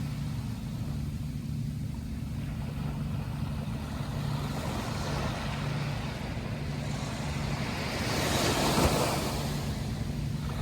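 Sea waves washing, with one wave surging loudest about eight seconds in, over a steady low engine drone.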